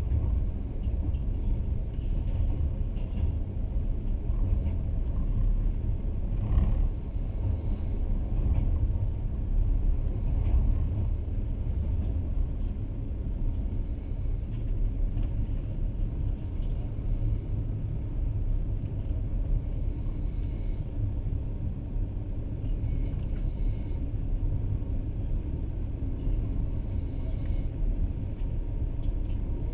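Passenger train running along the track, heard from inside the carriage: a steady, deep rumble of wheels on rails, with a few faint clicks.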